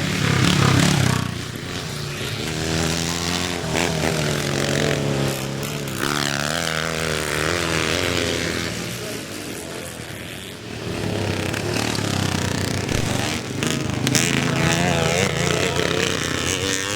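Several classic motocross motorcycles racing, their engines revving up and down as they pass and change gear, with the pitch rising and falling repeatedly.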